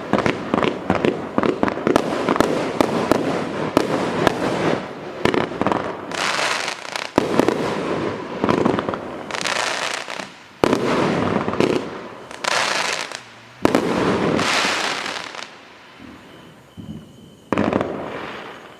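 Display firework cakes firing. A dense run of bangs and crackling opens the sound, then single loud reports each trail off into a second or so of hissing crackle. The shots thin out, with a last burst shortly before the end.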